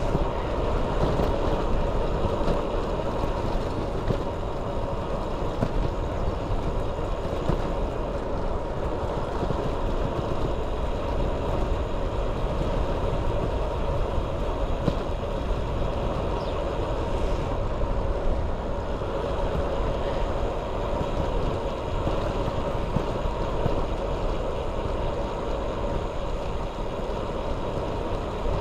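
Trek Domane SL5 carbon road bike riding a bumpy, rough country lane: a steady rumble of tyres on the rough tarmac with wind noise on the bike-mounted action camera's microphone and a faint steady hum.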